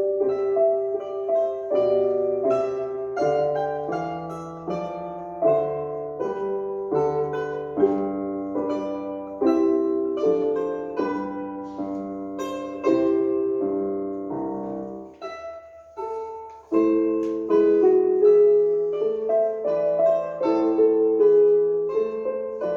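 Piano playing a melody over chords, each note struck and fading, with a brief pause about two-thirds of the way through before the playing goes on.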